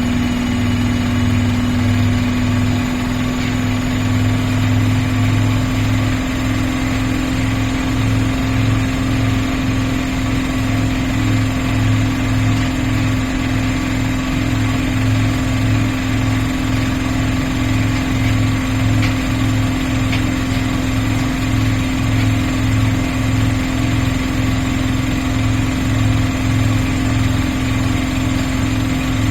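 Miele PW 6080 commercial washing machine running steadily: a constant motor hum over a low throb that pulses at an even rate, as the large drum turns at a steady speed.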